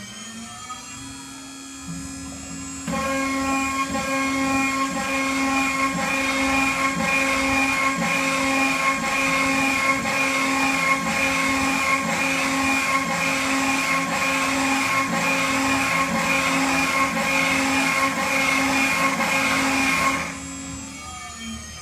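Mini CNC router's spindle milling aluminium: a steady high-pitched whine with dense, gritty cutting noise that starts about three seconds in and stops sharply near the end, leaving the spindle running alone briefly.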